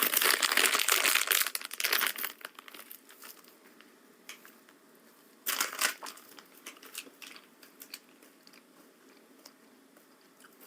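Plastic snack packet crinkling as it is handled, loudest for the first two seconds or so, with another short burst about five and a half seconds in and faint scattered crackles between.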